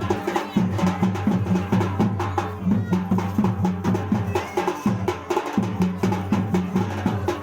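Drumming in a fast, even rhythm, several strokes a second, over a low pitched drone.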